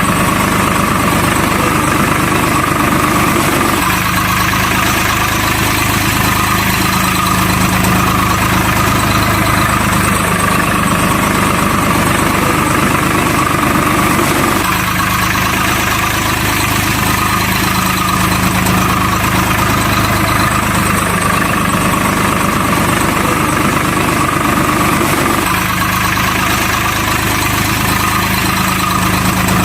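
Steady engine-like running drone with no speech, its pattern repeating about every eleven seconds like a looped track.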